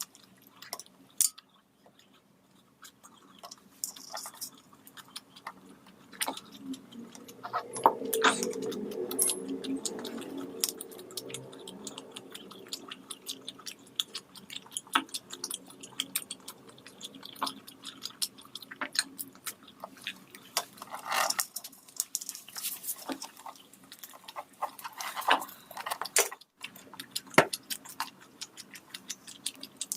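Someone eating a meal of rice and curry: chewing and mouth smacks with many scattered short clicks and knocks, busiest about eight to eleven seconds in.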